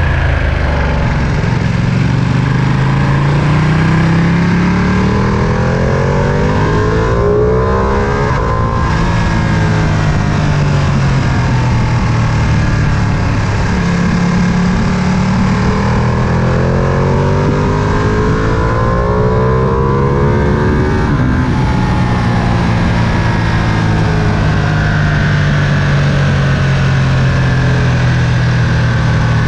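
Ducati Panigale V2's 955 cc V-twin under way, its revs climbing under throttle and then dropping suddenly, twice, about eight and twenty-one seconds in, then running more steadily.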